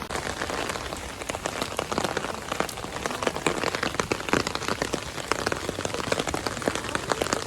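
Heavy rain falling, an even hiss with many sharp, close drop hits scattered through it.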